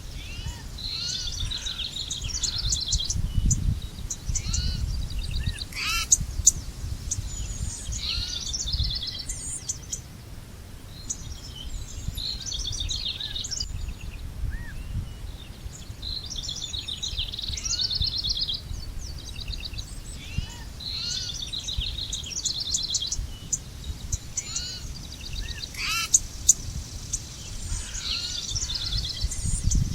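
Songbirds singing: quick high trills and short chirps repeated every second or two, from more than one bird. A steady low rumble lies underneath.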